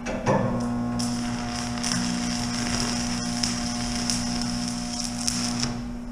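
Stick-welding arc from a 7018 rod on DC, crackling and hissing steadily as a bead is run. It starts just after the beginning and stops shortly before the end.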